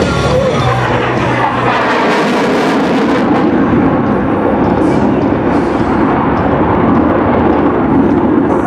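F-16 Fighting Falcon's jet engine, a General Electric F110 turbofan, running loud and steady as the fighter flies a tight turn past the crowd. Its pitch sweeps downward through the first couple of seconds.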